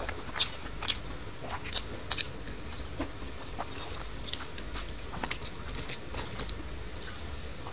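Close-miked chewing and mouth sounds of a person eating, with irregular sharp smacks and clicks.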